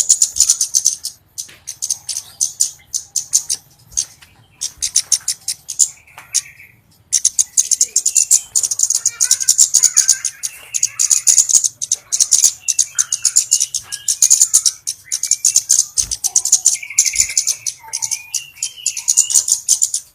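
Flowerpecker lure call: a dense, very rapid high-pitched ticking chatter that comes in long runs broken by short pauses. Over it are scattered shorter chirps and buzzy trills.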